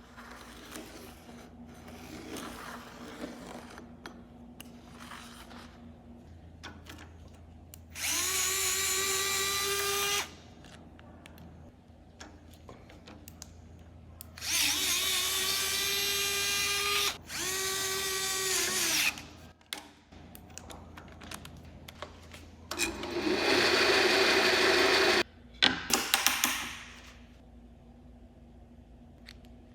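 Hybro H500 3.6V cordless electric screwdriver running in four short bursts of two to three seconds each, a steady whine. The last burst is rougher and louder, and a few sharp clicks follow it. Faint handling noises fill the gaps between runs.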